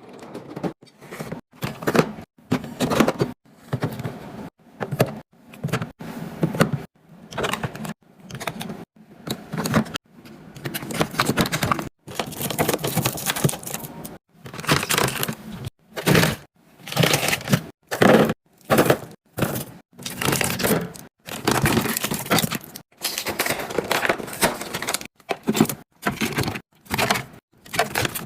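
Quick-cut run of handling sounds as food is stocked into a fridge: containers and packaging clattering, knocking and scraping. Each snippet cuts off abruptly, one after another every second or so.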